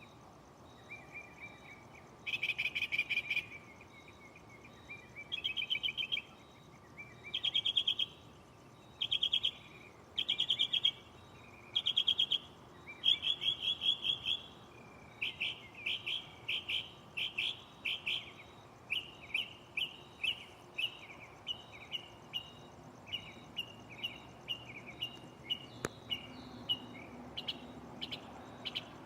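Northern mockingbird singing: bursts of repeated notes, each phrase repeated several times before switching to another. In the first half the phrases are about a second long with gaps between them; about halfway in they change to quicker, shorter notes about two a second.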